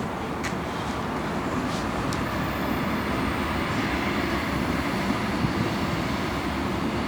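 Freight train with diesel locomotives running by, a steady low rumble that grows slightly louder.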